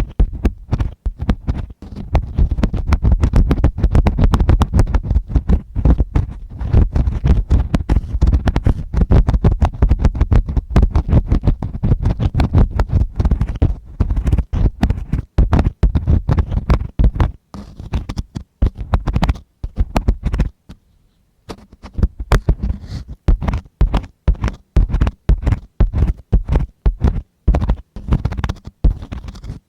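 ASMR ear cleaning right against the microphone: a tool scratching and rubbing in quick, dense strokes with a heavy low rumble. The strokes break off for about a second around two-thirds of the way through, then resume.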